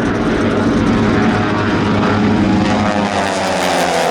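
Propeller-driven aerobatic airplane's engine running loud during a display routine, its pitch climbing near the end.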